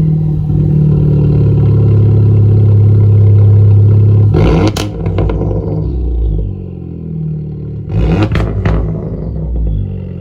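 Honda Civic Type R's turbocharged four-cylinder engine running loud with the muffler removed, just after starting, with two short throttle blips about four and a half and eight seconds in.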